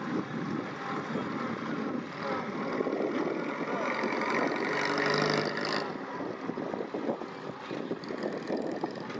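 MG M-type Midget's small overhead-cam four-cylinder engine running with a fast, rattly beat as the open car drives slowly across grass.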